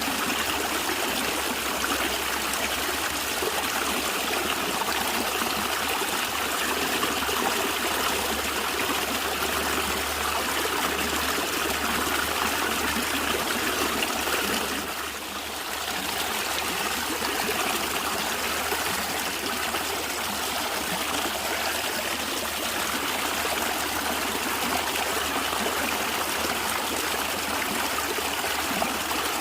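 Natural stream water gurgling and trickling steadily, with a brief dip in level about halfway through.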